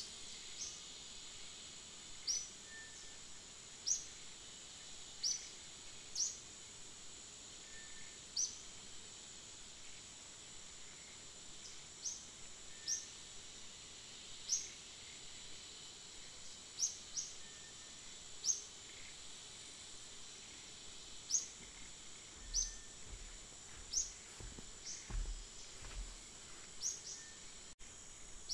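Rural outdoor ambience: a steady high-pitched insect drone, with a bird giving short rising chirps every second or two. A few low bumps come near the end.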